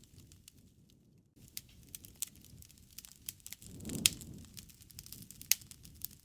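Wood fire crackling, with scattered sharp pops over a low rumble of flames. The sound drops away briefly about a second in. The loudest pop comes about four seconds in, and another follows about a second and a half later.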